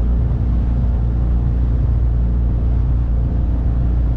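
9.8 hp outboard motor driving a small boat at a steady speed: an even, unbroken low drone.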